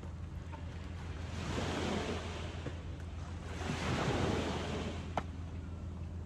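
Ocean waves washing onto the shore, two swells of surf rising and falling, with a light rumble of wind on the microphone. A single sharp click about five seconds in.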